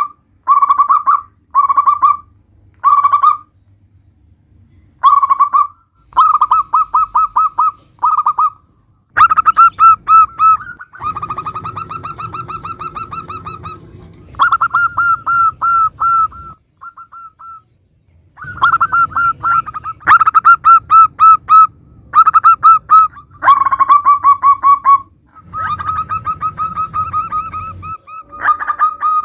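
Local zebra doves (perkutut) cooing in repeated bursts of fast, staccato notes, one phrase after another with short pauses between.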